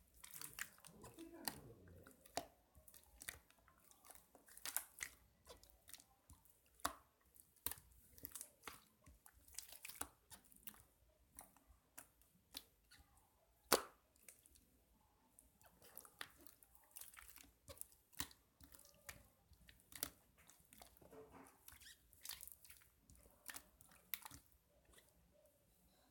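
Faint, irregular crunching and crackling, a sharp click or crunch every second or so with the loudest about halfway through, much like close-miked chewing.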